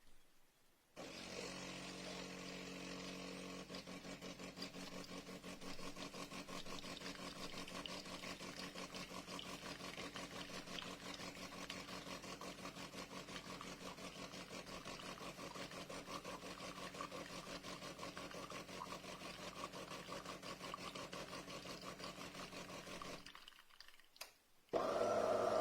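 Automatic bean-to-cup espresso machine running: a steady hum with a fast pulsing flutter that starts about a second in and stops after about twenty-two seconds. A louder, different sound cuts in just before the end.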